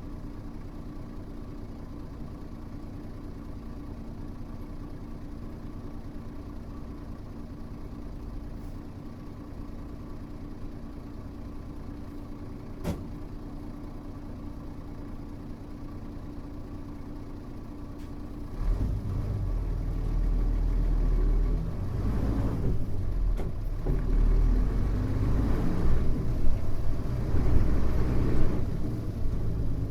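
Mitsubishi Fuso U-MK618J route bus heard from inside: the diesel engine idles steadily while the bus stands, with a single sharp click about 13 seconds in. About two-thirds of the way through, the engine revs up loudly as the bus pulls away and accelerates, the sound rising in stages with brief dips.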